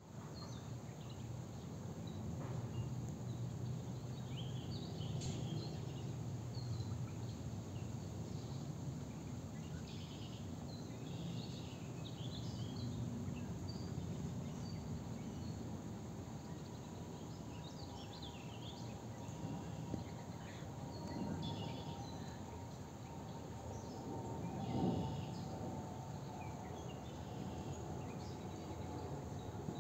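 Outdoor ambience: scattered short bird chirps over a steady low background rumble, with a faint steady hum joining past the halfway point.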